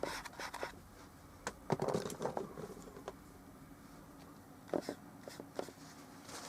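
Scattered soft clicks, taps and short scrapes of oil-painting work: a brush dabbing and scrubbing on a small painting surface, with tools handled now and then. The sounds come in clusters just after the start, around two seconds in, and again near five seconds.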